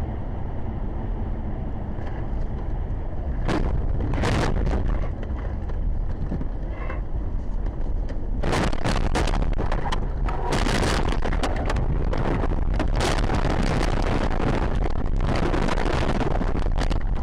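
A vehicle on the move recorded through a dashcam microphone: a loud, steady rumble of road and wind noise, with gusty surges of hiss several times.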